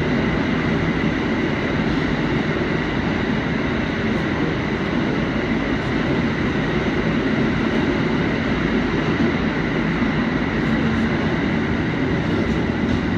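Inside an R160 subway car running steadily through a tunnel: a constant loud rumble of wheels on rail and traction motors, with a faint steady whine on top.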